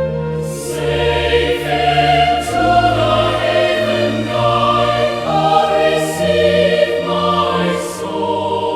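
Choir singing a slow hymn in sustained chords over a moving bass line.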